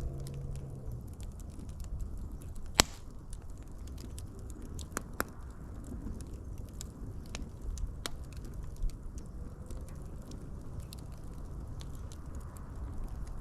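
Fire crackling: scattered sharp pops and snaps over a steady low rumble, with one loud pop about three seconds in.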